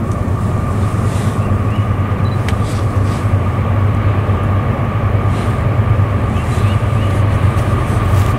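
Unseen Norfolk Southern train approaching: a steady diesel locomotive rumble with a constant high rail hum, slowly growing louder. A few faint bird chirps come through above it.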